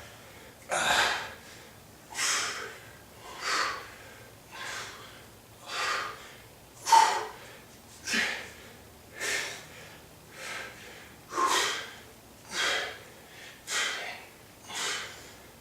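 A man breathing hard through a set of weighted-plate rows: a short, forceful exhale with each rep, about one a second, thirteen in all.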